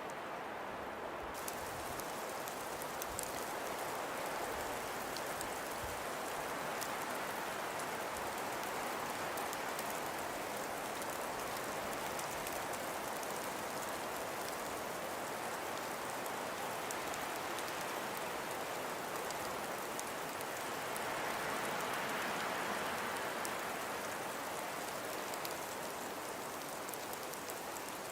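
Wind and falling snow in a snowstorm: a steady rushing hiss with fine pattering ticks, fuller in the high end from about a second in and swelling briefly about three quarters of the way through.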